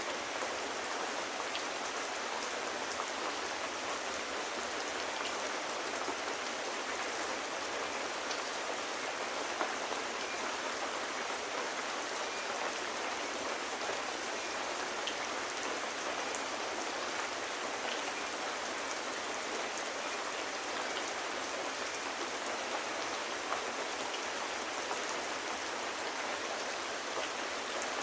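Steady rain falling, an even hiss of drops with a few scattered small ticks.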